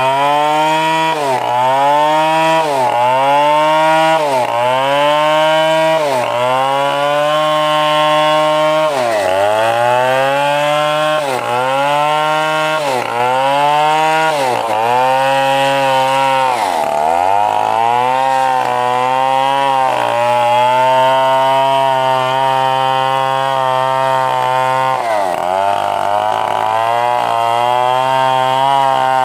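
A Stihl 070 two-stroke chainsaw runs at full throttle, ripping a coconut log lengthwise. For the first third the engine pitch sags and recovers about every three-quarters of a second as the chain bogs in the cut. After that it holds steadier, with a few deeper dips under load.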